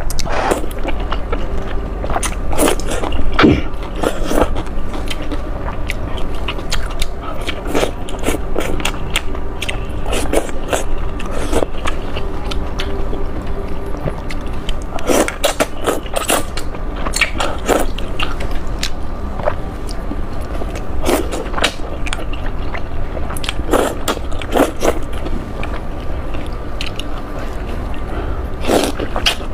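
A person chewing noodles close to the microphone: irregular wet clicks and crunches of biting and chewing, over a steady low hum.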